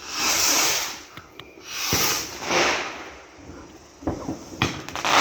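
A garden firework going off: two loud hissing bursts, then several sharp cracks near the end.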